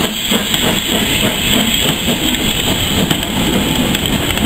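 A train of open goods wagons and a brake van rolling slowly past close by, its wheels rumbling and clattering on the track in a steady, loosely rhythmic way.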